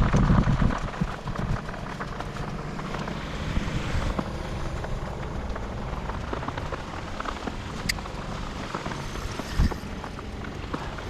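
Heavy rain falling steadily, with wind buffeting the microphone, strongest in the first second or so, and a single dull thump near the end.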